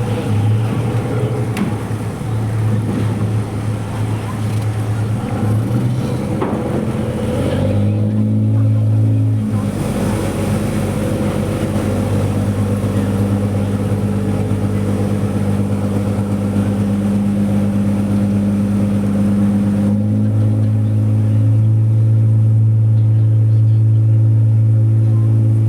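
Ferry engine droning steadily, its pitch stepping up about eight seconds in and shifting again about twenty seconds in as the engine speed changes.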